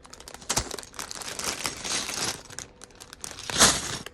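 Plastic bags of Lego pieces crinkling as they are handled and searched through, in irregular rustles, with the loudest one about three and a half seconds in.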